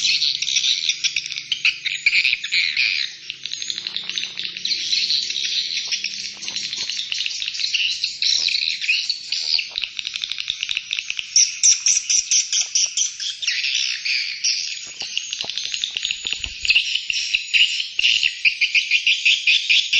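A dense animal chorus: many high-pitched calls overlapping, each a rapid trill of pulses.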